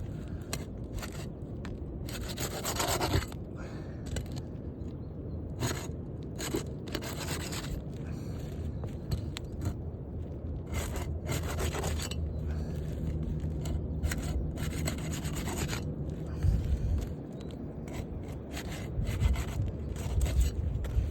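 Roof shingles being unsealed by hand: a tool scraping and rubbing under the shingle tabs in irregular strokes, with a few longer, louder scrapes.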